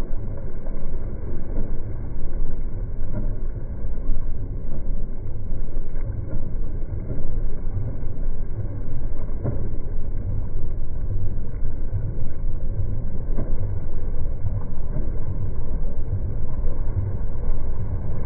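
Steady low rumble with no clear events or changes.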